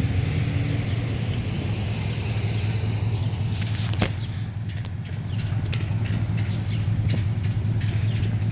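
Wind blowing across the camera microphone, a steady low rumble, with a few sharp clicks, the strongest about four seconds in.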